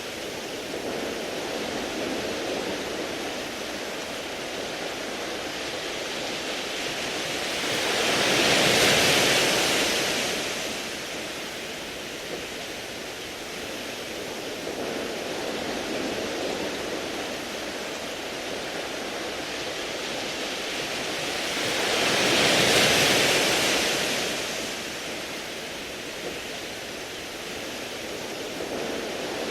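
Sea waves washing on a beach of smooth round pebbles, a steady wash with two bigger waves surging in, hissing loudly and falling away, about a third of the way in and again about three-quarters through.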